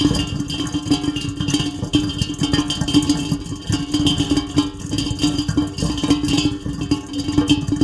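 Heavy rain falling in a dense, continuous patter of drops, with a steady low tone running underneath.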